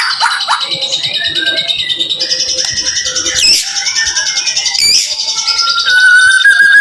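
White-rumped shama (murai batu) singing a dense run of high trills and chattering notes, with two sharp sweeping notes about three and a half and five seconds in. A clear, slightly rising whistle comes in near the end.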